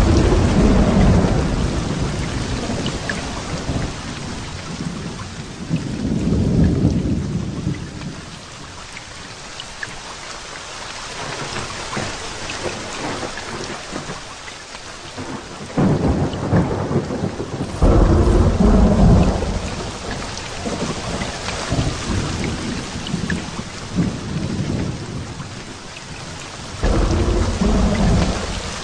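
Heavy rain falling steadily, with thunder rolling again and again: a loud deep rumble at the start, another about six seconds in, two that break suddenly about halfway through, one right after the other, and one more near the end.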